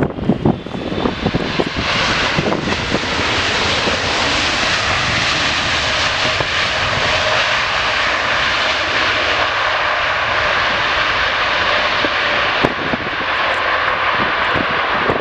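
Airliner engines running loud and steady as an aircraft moves close by, a rushing roar with a faint high whine. Wind buffets the microphone in the first second or two.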